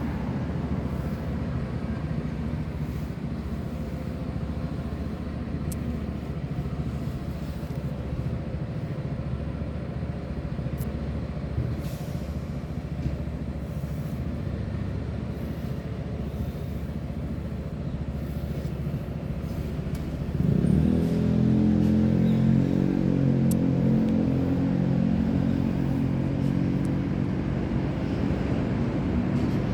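Steady low engine hum, with a stronger, higher-pitched drone setting in about two-thirds of the way through.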